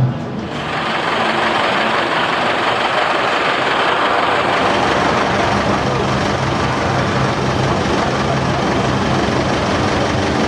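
Tractor engines running steadily: a constant low drone under a broad, even noise, starting about half a second in as the music cuts off.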